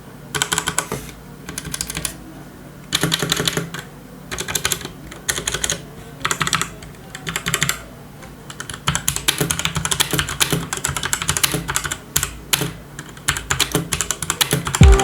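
Typing on a Cosmic Byte Firefly CB-GK-18 mechanical keyboard with Outemu Red linear switches. The keystrokes come in short bursts of rapid clicks with pauses between them, then run on almost without a break from about nine seconds in.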